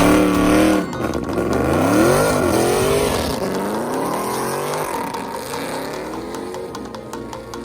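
Car engine revving hard, its pitch sweeping up and down several times, then holding steadier and slowly fading away.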